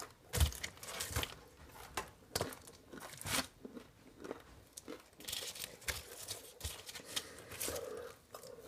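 Food and paper wrappers being handled: irregular crinkling, tearing and crunching as cold bacon is piled onto a burger.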